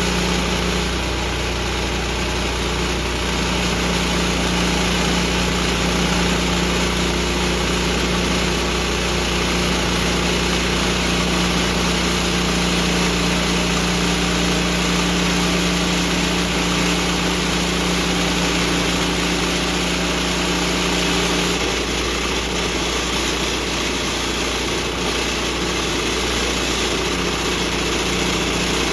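Woodland Mills HM126 portable bandsaw mill running steadily, its engine under load as the blade cuts through a red oak log. The engine note shifts a little about two-thirds of the way through.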